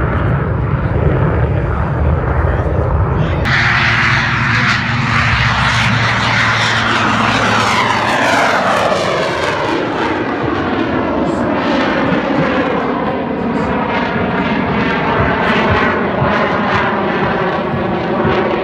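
Jet aircraft passing low overhead: a low engine rumble, then about three and a half seconds in a sudden loud rush of jet noise whose pitch sweeps downward as the aircraft passes and draws away.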